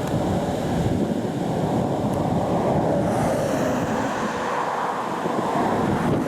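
Wind buffeting the microphone over the steady rumble of a Union Pacific freight train rolling past.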